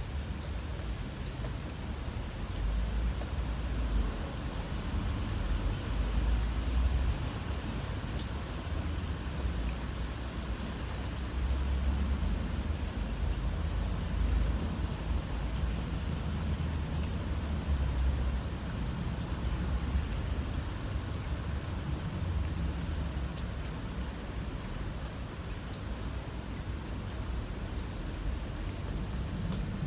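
Insects, crickets, trilling in one continuous high-pitched chorus, with a second, higher trill joining about two-thirds of the way through, over a low, uneven rumble.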